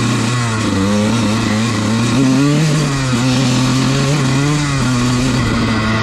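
Dirt bike engine running under way, its pitch rising and falling slightly with small throttle changes.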